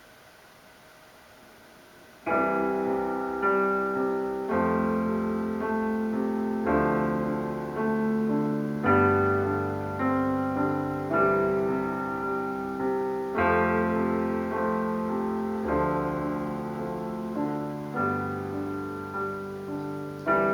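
Keyboard playing a slow piano-sounding chord introduction that comes in about two seconds in, a new chord struck roughly once a second.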